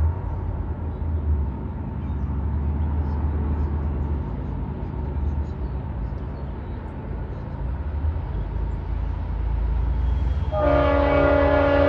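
Diesel locomotive rumbling as it passes, then near the end its air horn sounds a loud, steady multi-note chord that starts abruptly.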